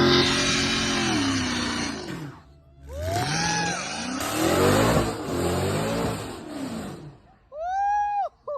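A car's engine revving hard, dropping off briefly, then accelerating with its pitch climbing as the driver pulls away. A short high-pitched squeal comes near the end.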